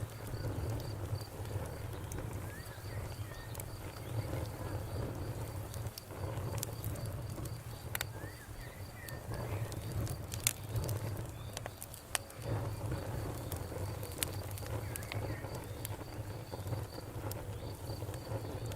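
Campfire burning with a low rumble and scattered sharp crackles and pops, a few louder snaps among them. Crickets chirp in a fast, even pulse throughout.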